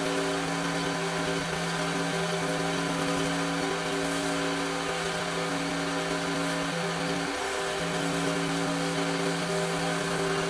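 Tractor engine running at a steady speed, a constant hum with a steady hiss over it.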